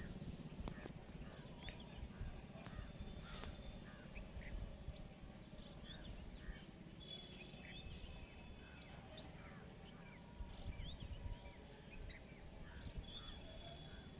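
Several birds chirping and calling, short rapid notes with a few longer whistled notes around eight seconds in and near the end, over a steady low rumble.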